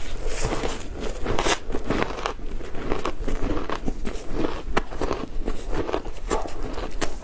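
A person biting and chewing matcha-powdered ice, a steady run of crisp crunches several times a second.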